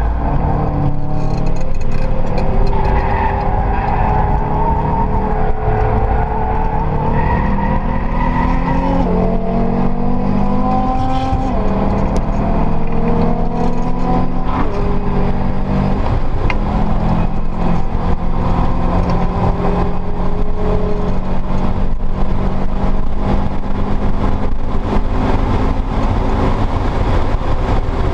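Subaru Impreza STi's turbocharged flat-four engine heard from inside the cabin under hard track driving. The pitch climbs through the gears and drops at the upshifts, twice in the first half, then holds steadier.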